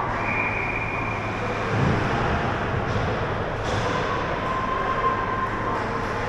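Ice hockey rink ambience during play: a steady rumbling wash of skates carving and scraping across the ice, with faint voices drifting in and out.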